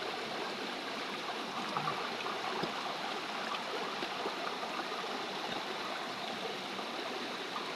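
Steady rushing of a flowing river or stream.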